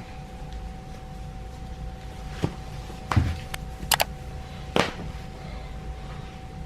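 A few short knocks and clicks, one of them a quick double click, over a steady low hum with a faint steady tone.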